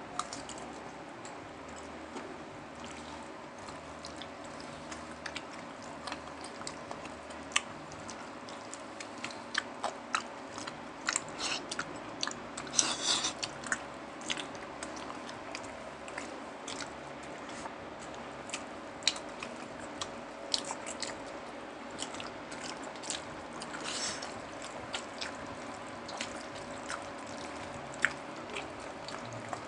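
Close-up eating sounds: chewing and biting with scattered sharp crunches of crispy fried pork, busiest about halfway through, over a faint steady hum.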